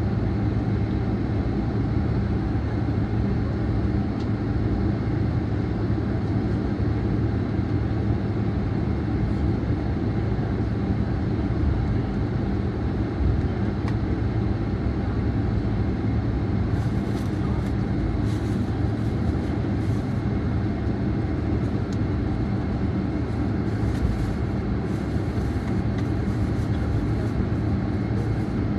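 Steady rumble and low hum inside a jet airliner's cabin on the ground after landing.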